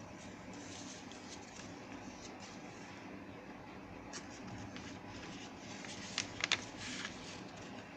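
Sheet of paper being handled and folded: soft rustling and scraping, with a few sharp crinkles about six seconds in. A steady low hum sits underneath.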